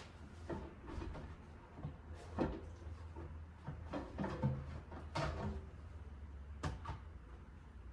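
Scattered light knocks and clicks of objects being handled, over a low steady hum.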